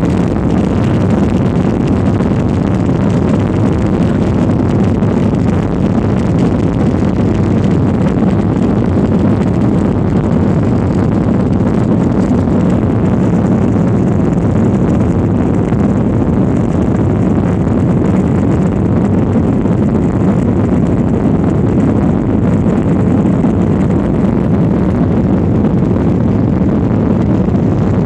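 Jet airliner engines running steadily, heard as constant cabin noise from inside the passenger cabin.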